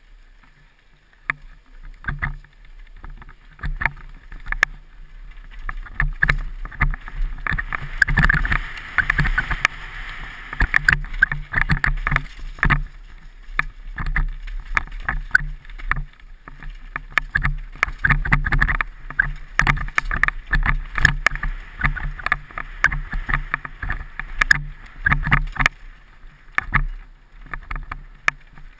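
Continuous irregular knocking and rattling of a body- or helmet-mounted camera being jolted on a downhill run, with rushing noise that swells about eight to twelve seconds in and a steady low hum.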